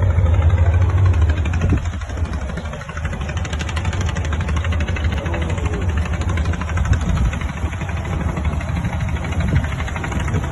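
An engine running steadily with a fast, even throb, a little louder for the first two seconds.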